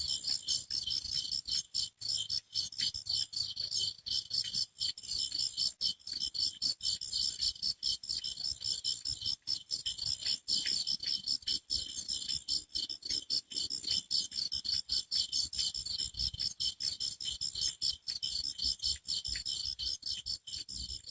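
Crickets chirping at night in a dense, continuous chorus of rapid high-pitched pulses.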